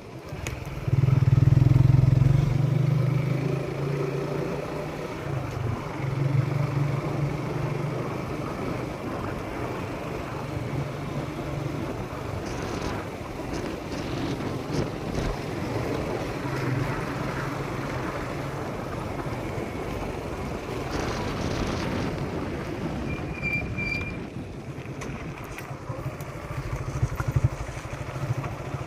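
Motorcycle running along a road while being ridden, its engine and road noise steady throughout, loudest from about a second in for a couple of seconds.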